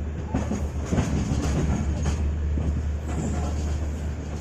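Passenger train running along the track, heard from on board a coach: a steady low rumble with wheels clattering and knocking over rail joints, the loudest knock about a second in.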